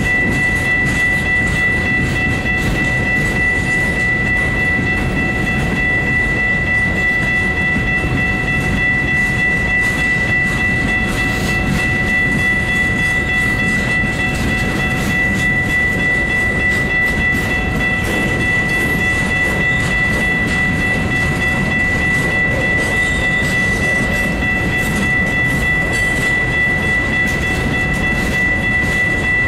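Freight cars of a Union Pacific rock train rolling steadily past on the rails, with a continuous high-pitched tone running over the rumble.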